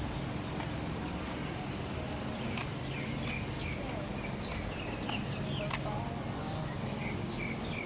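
Street ambience: a steady low hum of traffic, with small birds chirping in short, quick calls from about two and a half seconds in.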